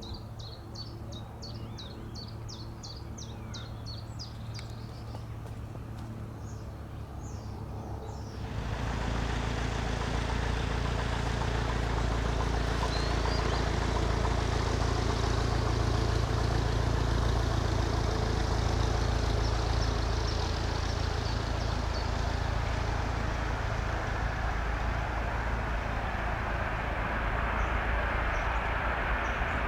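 Birds chirping over a low hum, then about eight seconds in the jet noise of a Boeing C-17 Globemaster III's four turbofan engines comes in abruptly and holds loud and steady. Near the end a whine climbs slowly in pitch.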